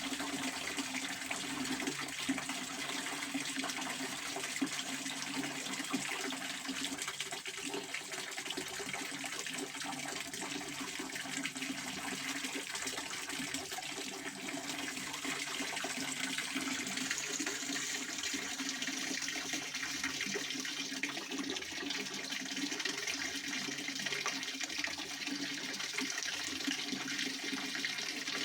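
Pond water fountain splashing steadily, an even rushing patter of falling water.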